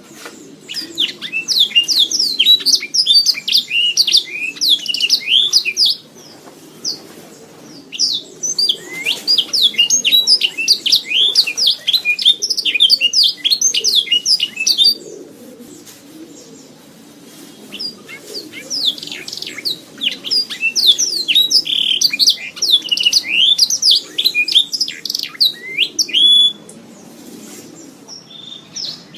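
Domestic canary singing in three long bouts of rapid, high trills and chirps, with short pauses between them.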